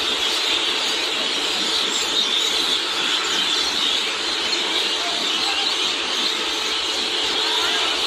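Many small birds chirping at once in a dense, unbroken, high-pitched chorus.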